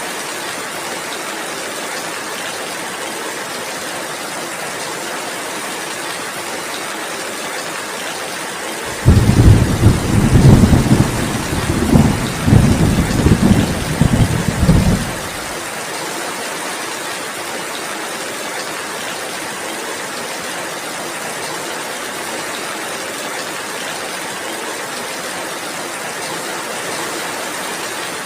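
Heavy rain falling steadily as an even hiss. About nine seconds in, a loud, low rumble of thunder starts suddenly, rolls in several waves for about six seconds, then stops.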